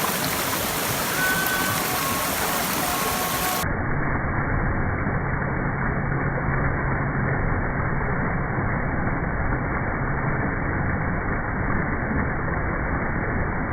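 Waterfall and clear mountain stream water rushing steadily. From about four seconds in it sounds duller, with its upper hiss cut off.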